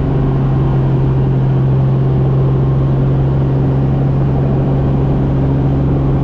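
Helicopter in flight, running steadily: a loud, unchanging drone with a strong low hum.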